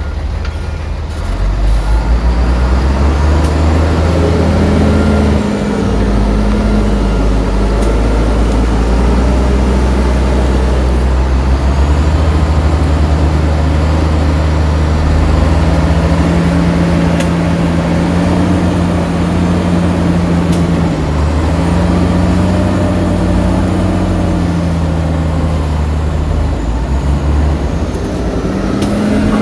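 Heavy diesel engine of earthmoving machinery working, revving up about two seconds in, then running under load with its engine speed rising and falling several times. A reversing alarm beeps briefly at the very start.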